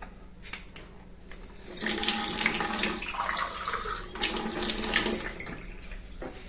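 Water running from a tap into a container, starting about two seconds in and stopping about five seconds in.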